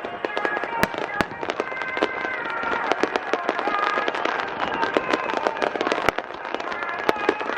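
Aerial fireworks shells bursting in rapid succession, a dense run of sharp bangs and crackles with several louder booms scattered through, about a second in, near the middle and near the end.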